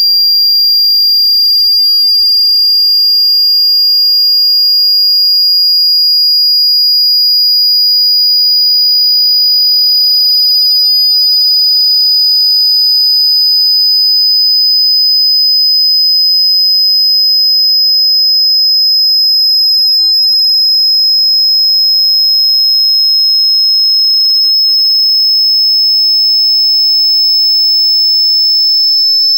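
Loud, pure high-pitched sine tone from a water-eject speaker-cleaning track, rising very slowly and steadily in pitch.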